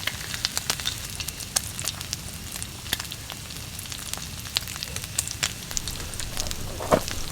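Wood campfire crackling, with irregular sharp pops and snaps over a steady low hiss, and one louder knock near the end.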